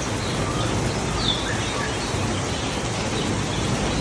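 A few short bird chirps, the clearest about a second in, over a steady rush of background noise with a low hum.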